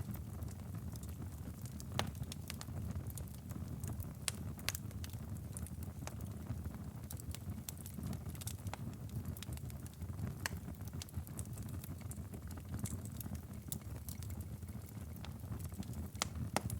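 Wood fire crackling in a fireplace: a steady low rumble of burning with frequent sharp pops and snaps, a few of them louder, about two seconds in and again near the end.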